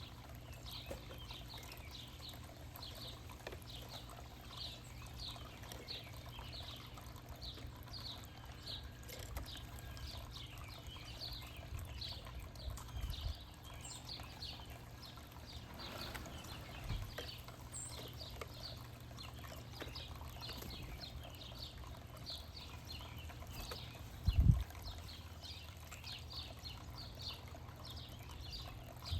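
Backyard birds chirping over and over in short, high, downslurred notes, with a steady low hum underneath. A single loud low thump comes a few seconds before the end.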